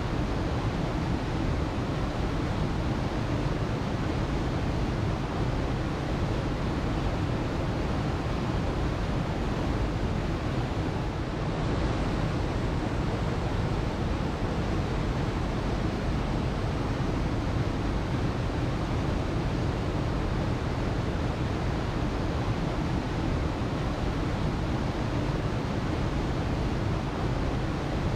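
Waterfall: water falling and splashing in a steady, unbroken rush, full and deep.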